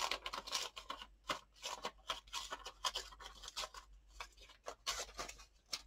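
Old, brittle music paper being torn into small pieces by hand: a quick run of short, crisp crackles.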